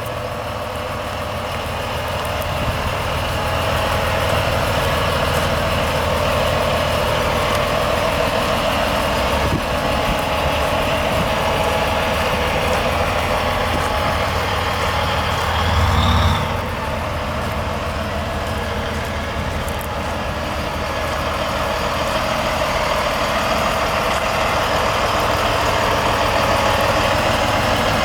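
Volvo D16 16-litre inline-six diesel in a 2008 Volvo VT 880 truck, idling steadily, with one brief louder surge about sixteen seconds in.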